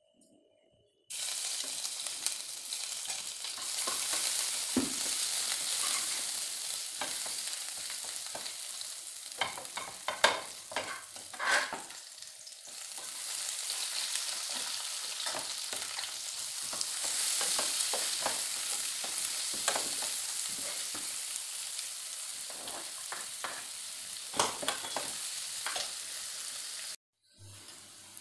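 Chopped onion and green chilli sizzling in hot oil in an aluminium kadhai, with a steel ladle clinking and scraping against the pan now and then. The sizzle starts suddenly about a second in and cuts off abruptly near the end.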